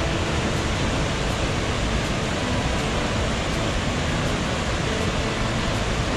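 Steady rushing of flowing stream water, a loud, even hiss with no break.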